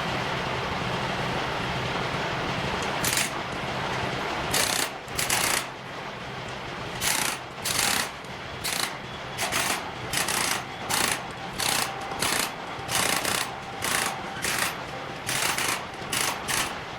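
Pneumatic impact wrench working forklift wheel nuts in about twenty short bursts, starting about three seconds in, over a steady machine hum.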